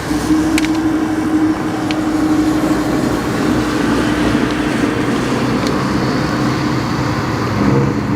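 Car engine running at a steady, slightly falling pitch, then revving up with rising pitch near the end.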